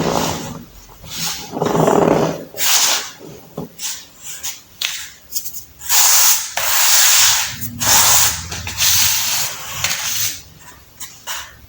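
Baking soda being crushed, a series of irregular dry crunching and rasping bursts. The longest and brightest of them come in the middle of the stretch.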